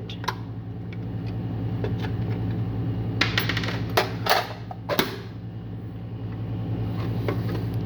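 A handful of sharp clicks and clacks of hand tools being handled and set down, about five in all, over a steady low electrical hum.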